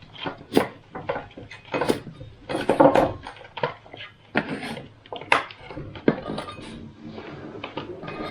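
Kitchen dishes and utensils clattering during food preparation: a string of irregular knocks and clinks.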